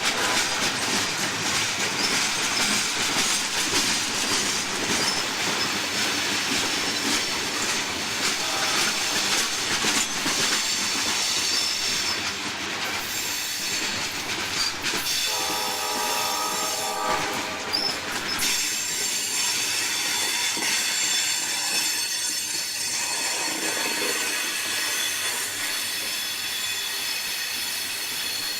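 A loaded coal train rolling past, its steel wheels squealing with thin, high, steady tones over a constant rumble and rattle of the cars. Just past the halfway point a short pitched chord sounds for about two seconds.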